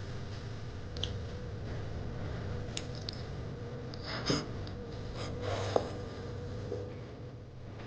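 Steady room noise with a low hum, broken by a few small clicks and taps scattered through it, the sharpest a little past halfway.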